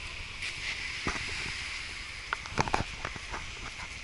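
Steady outdoor hiss with several short, sharp knocks, most of them a little past halfway.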